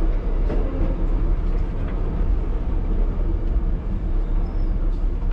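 1938 Tube Stock train running, a steady low rumble with faint clicks over it.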